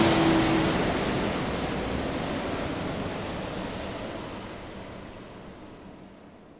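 Steady rushing roar of airliner cabin noise from the engines and airflow, fading smoothly down over several seconds, the hiss at the top dying away first.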